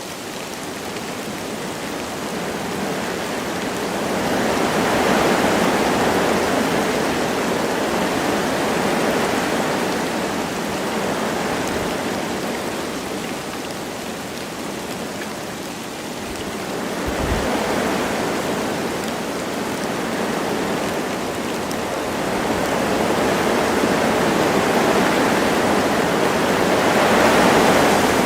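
Wind gusting through forest trees with light rain falling, a steady rushing that swells and eases in three slow gusts.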